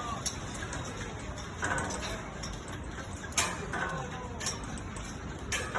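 Scattered sharp clicks and knocks over a steady background noise, the loudest about three and a half seconds in.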